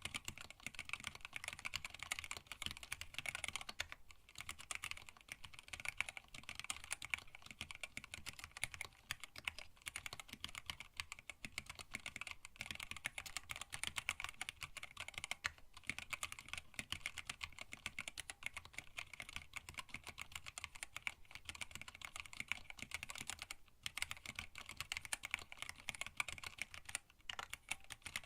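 Continuous fast typing on a hand-wired split mechanical keyboard with Tealios linear switches, blank PBT keycaps and an acrylic case: a dense stream of keystrokes, broken by a few brief pauses.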